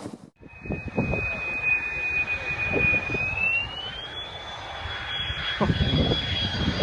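Aircraft engine running with a high steady whine that rises in pitch about three seconds in and then holds, over an uneven low rumble.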